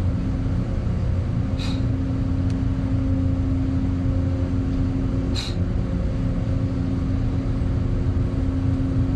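Air handling unit's blower motor and fan running with a steady low hum and drone, the abnormal noise and vibration the technician puts down to the supply-duct damper not being fully open. Two short, sharp clicks sound over it, about two seconds and five seconds in.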